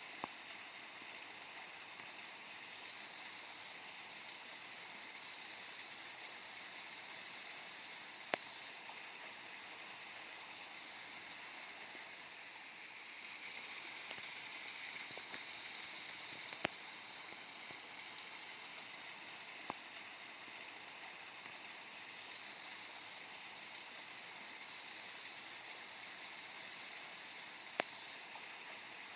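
Waterfall water rushing and splashing steadily, with a slight swell in the middle. A few short sharp clicks stand out over it.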